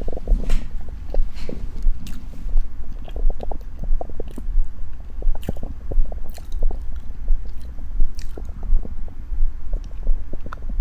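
Close-up chewing of a tea egg: steady rhythmic chewing, about one and a half chews a second, with small wet clicks and crunches, over a low steady hum.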